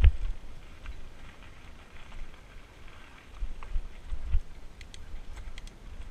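Helmet- or bike-mounted view of an electric fat-tire mountain bike riding a rough dirt trail: uneven low rumble and bumps from the tires and frame, with wind buffeting the microphone. A sharp thump right at the start and another about four seconds in, and light clicks and rattles scattered through the second half.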